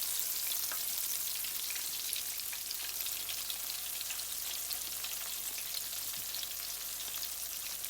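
Steady sizzle and crackle of hot oil in a karahi as gram-flour-battered chicken and potato pakoras deep-fry.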